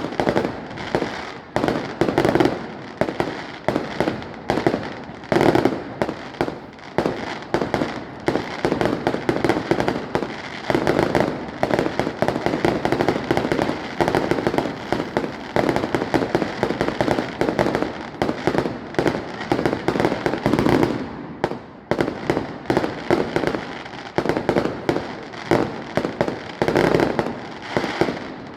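Fireworks display: a dense, continuous barrage of bangs and crackling bursts, several a second, with brief lulls.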